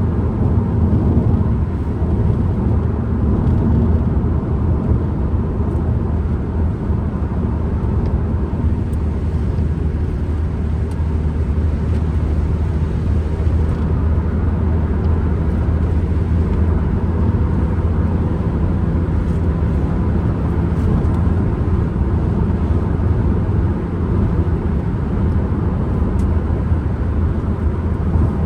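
Ford Transit Connect van driving along, heard from inside the cabin: a steady low engine drone with road and wind noise over it.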